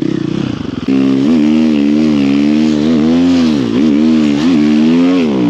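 Snow bike's dirt-bike engine revving hard, its pitch rising and falling with the throttle. It jumps to high revs about a second in and dips briefly twice near the middle.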